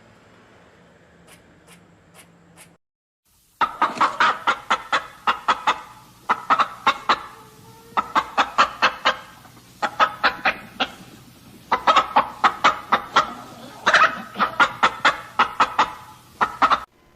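Chickens clucking in quick runs of short, sharp notes, bout after bout, starting a few seconds in.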